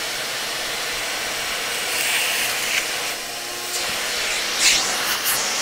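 An electric air-moving appliance, a vacuum or blower, running with a steady whoosh, with a few short hissing rushes of air about two seconds in and again near the end, as air is worked through the laptop's dusty cooling fins.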